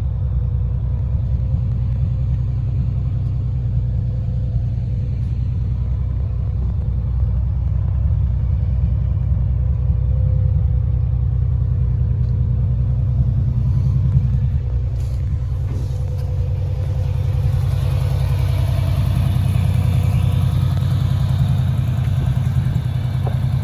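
Subaru SVX 3.3-litre flat-six engine in a Volkswagen Transporter camper running steadily, a low, even rumble with slight swells in level.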